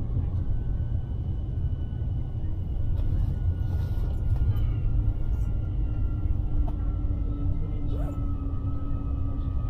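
Cabin sound of a Chinese high-speed train pulling into a station: a steady low rumble of the running train, with faint whining tones, one of which slowly falls in pitch as the train slows along the platform.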